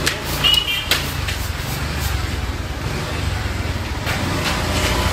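Motorbike engine running at low speed as a steady low rumble, with a few short ticks and a brief high chirp in the first second.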